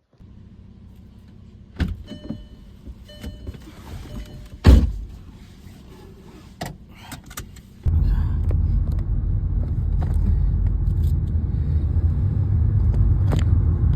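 A machine's low steady hum with scattered clicks and one loud knock, then a much louder low rumbling drone that switches on abruptly about eight seconds in.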